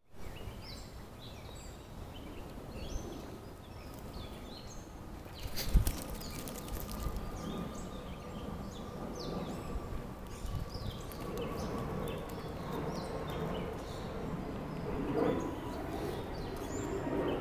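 Birds chirping over faint outdoor background noise, with a single loud knock about six seconds in and some rustling near the end.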